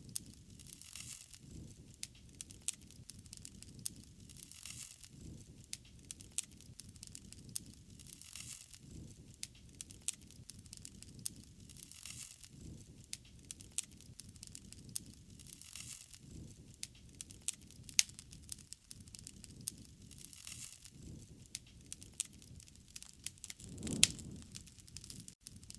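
Wood fire burning and crackling: frequent sharp pops over a low, rising-and-falling rush of flame, with two louder pops, the last near the end.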